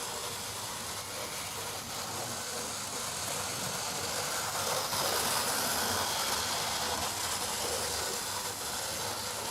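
A 1983 Hornby HST 125 model train running on its track, its motor and wheels making a steady running noise that grows louder about halfway through and eases off near the end. The 40-year-old motor is worn, though the train now runs fairly smoothly.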